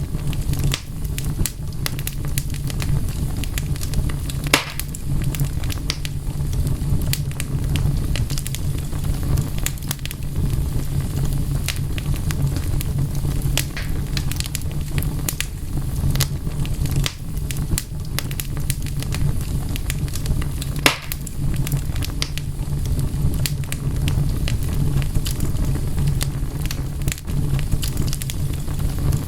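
Wood fire crackling steadily, with frequent small pops over a low rumble and two louder snaps, about four seconds in and about twenty-one seconds in.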